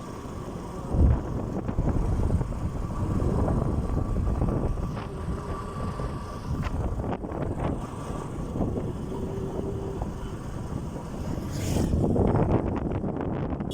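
Motorcycle running along the road, its engine rumbling under steady wind buffeting the microphone, with a brief thump about a second in.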